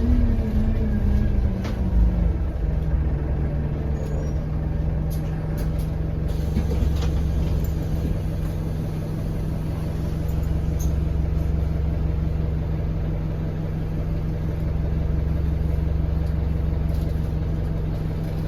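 Interior of an Alexander Dennis Enviro200 single-deck bus: the diesel engine's revs fall over the first two or three seconds, along with a faint whistle that the uploader puts down to a turbo leak, then the engine runs on at a steady low hum. A few faint clicks come a few seconds in.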